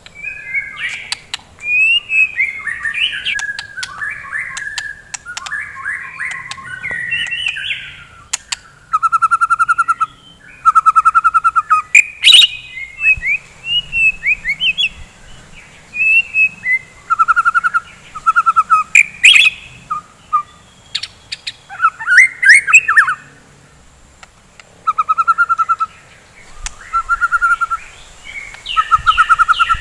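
A white-rumped shama sings a rich run of varied whistled phrases, broken again and again by short, fast, buzzy rattles repeated in bursts. Sharp clicks are scattered through the song.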